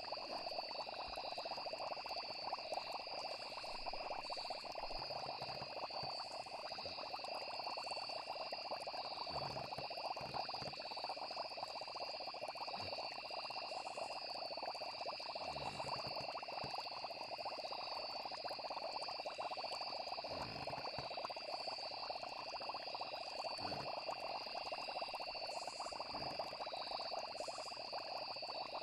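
Night chorus of frogs and insects: steady high trilling that never lets up, over a constant lower hiss with a few soft low pops.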